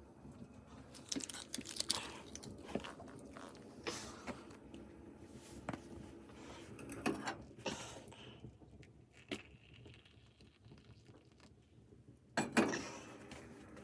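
Small handling noises: scattered clicks, taps and rustles, a few seconds apart, with a louder rustle near the end.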